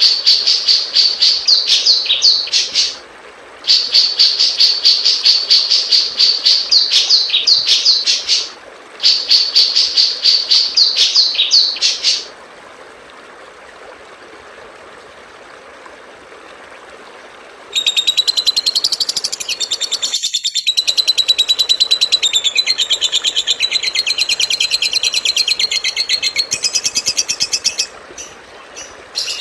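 Recorded songbird song from a masteran tutor track: three bouts of fast, high trills separated by short breaks, then several seconds of faint hiss, then a different rapid, chattering trill that runs almost to the end.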